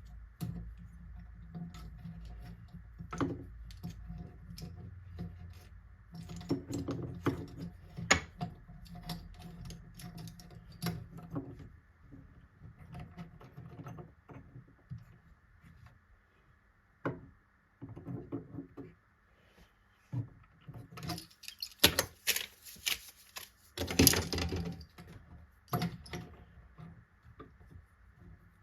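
Many small clicks and knocks of wood and metal hardware being handled, over a low steady hum for the first dozen seconds; about three quarters through comes a denser stretch of scraping with sharper knocks.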